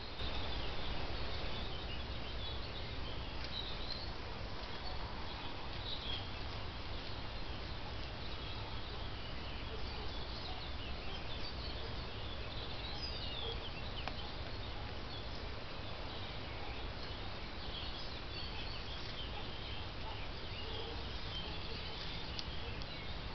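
Small birds chirping and calling on and off in woodland over a steady background hiss.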